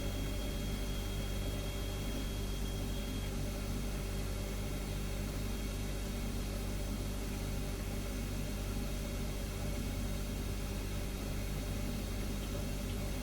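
Refrigerator running with a steady low hum and an even hiss. A faint high tone fades out about three seconds in.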